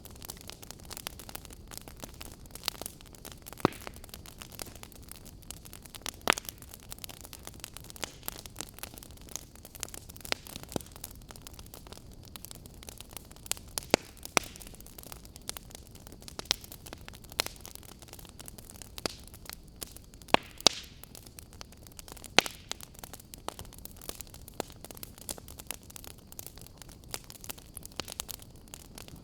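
Wood fire crackling in a fireplace: irregular sharp pops and snaps over a steady soft hiss, with a louder snap every few seconds.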